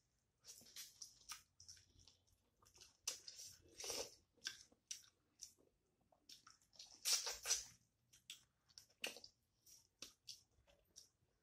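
Mouth sounds of a person eating chicken curry and rice by hand: wet chewing and smacking in short, irregular bursts, the loudest cluster about seven seconds in.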